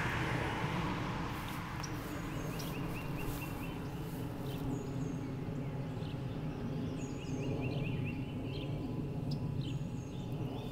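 Songbirds chirping and calling, short high notes scattered through, over a steady low hum.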